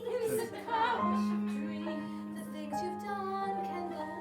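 Music: women singing an improvised song with instrumental accompaniment, holding long notes.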